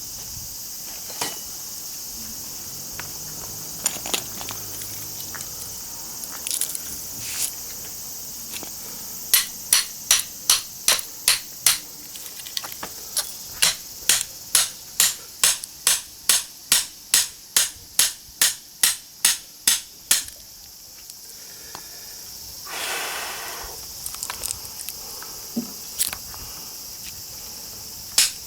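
Hammer striking a cold chisel into a small transformer's laminated steel core: a run of sharp metallic blows, about two a second, in two runs with a short pause between, over a steady high chirring of insects.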